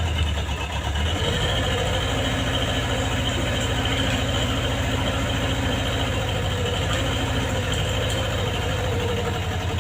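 Kobelco SK03 mini excavator's small diesel engine running steadily, with a faint higher whine joining from about a second in.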